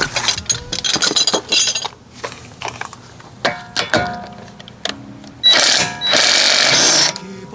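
Metal tools clinking and knocking, some strikes ringing briefly. Near the end comes a loud hiss lasting about a second and a half.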